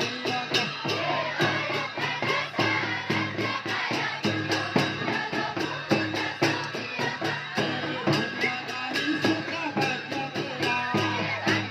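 A group of voices singing a festival song together over a steady beat of sharp strokes, about four a second.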